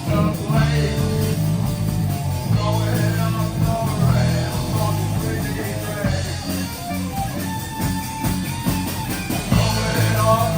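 A live rock band playing electric guitar, bass guitar and drums, loud and continuous.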